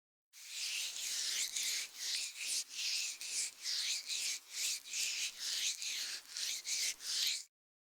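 Ear pick scraping and rubbing inside an ear in quick, repeated scratchy strokes, about two to three a second. The sound starts just after the beginning and cuts off suddenly near the end.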